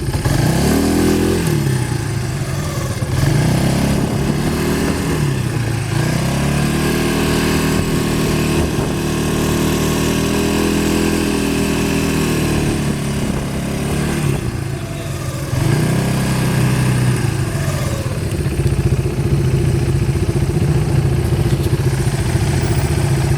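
Quad bike engine running under changing throttle. The revs rise and fall several times, hold high for several seconds in the middle, then settle into a steady run near the end.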